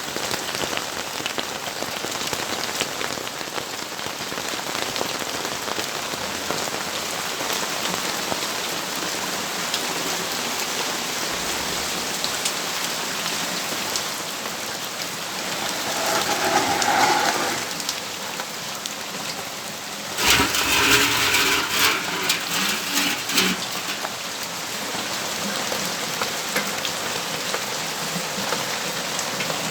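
Steady rain falling, an even hiss of drops. It swells with louder, rougher surges: a short one about halfway through and a longer one of about three seconds a little later.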